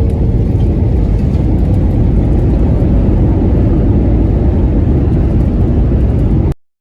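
Airbus A321 cabin noise during the landing rollout just after touchdown: a loud, steady roar of engines and wheels on the runway. It cuts off suddenly near the end.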